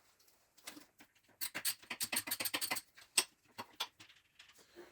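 Sharp, irregular clicks and taps of metal engine parts and hand tools being handled, with a quick run of them in the middle and one louder click just after.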